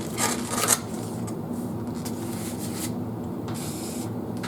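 A few quick scraping, rustling handling sounds in the first second, as pizza sauce is spooned onto a crust, then only a steady low hum.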